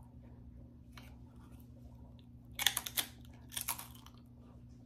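A person chewing a crunchy chip with her mouth near the microphone: two bursts of crisp crunching, the first about two and a half seconds in and the second a second later.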